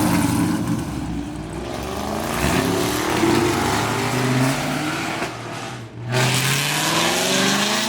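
Car engine accelerating hard, its pitch climbing and then dropping several times as it runs up through the gears, with a brief dip about six seconds in.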